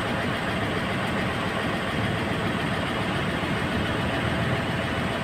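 Diesel truck engine running steadily.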